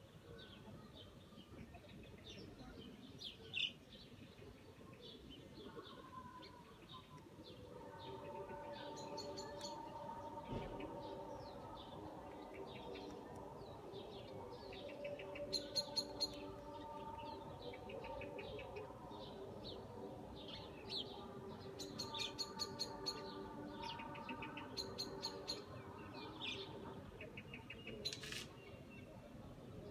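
Small birds chirping and twittering in short, scattered calls, with quick chattering runs now and then. From about eight seconds in, a steady hum with several pitches runs underneath.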